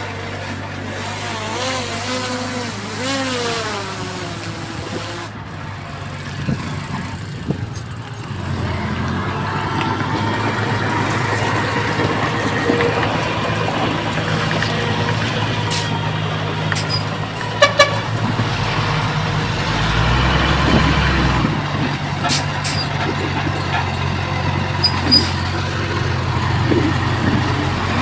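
Diesel engines of heavy earthmoving machinery, a bulldozer and dump trucks, running steadily, with a deeper rumble about two-thirds of the way through. A few sharp clanks are heard near the end, and voices are heard briefly near the start.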